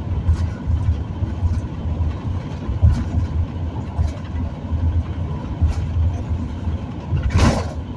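Cabin noise of a motorhome driving on the highway: a steady low engine and tyre rumble under road hiss. A brief louder rush of noise comes near the end.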